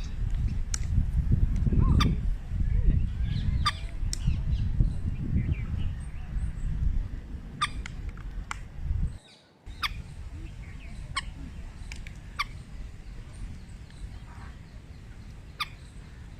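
Birds calling in short, sharp chirps over a dense low rumble. The sound drops out briefly about nine seconds in, then the chirps go on over a quieter rumble.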